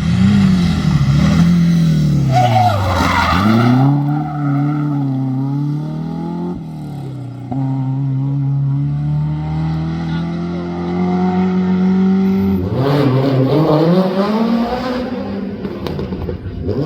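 Rally car engine at high revs on a stage. The revs drop sharply about three seconds in and climb again, then rise slowly in a long steady pull, and near the end a louder, noisier burst comes in with revs climbing fast.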